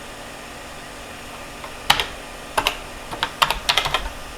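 Keystrokes on a computer keyboard: a single key press about two seconds in, then a quickening run of key presses near the end.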